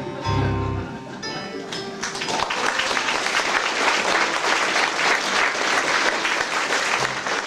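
A band plays its closing notes, then audience applause starts about two seconds in and carries on steadily.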